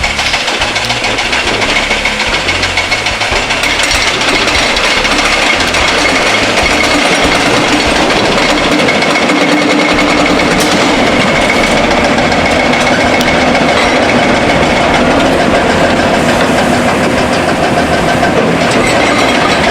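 Heavy construction machinery running: a diesel engine working under a dense, rapid metallic clatter, steady and loud throughout.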